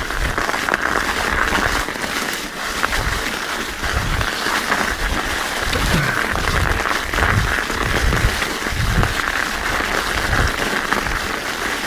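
Terrene Cake Eater studded mountain bike tires rolling over an icy, rocky trail: a steady crackling crunch of studs on ice and frozen ground, with irregular low thuds as the bike rides over bumps.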